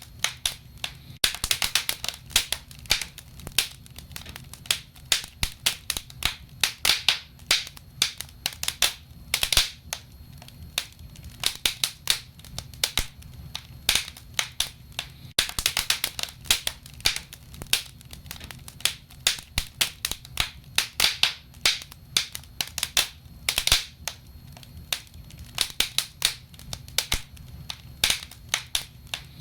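Wood fire burning in a stove, crackling and popping irregularly, several sharp pops a second and sometimes in quick clusters, over a steady low rumble.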